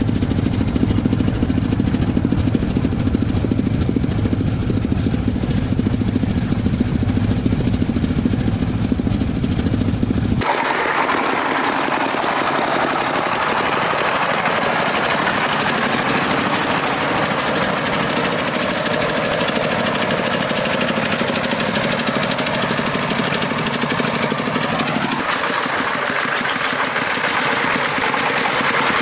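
Farm truck engine running with a deep, knocking beat. About ten seconds in, the sound switches abruptly to a higher, busier engine noise whose pitch rises near the end, then changes abruptly again.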